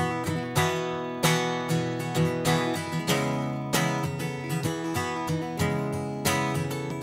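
Acoustic guitar strummed in a steady rhythm, an instrumental break between verses of a song.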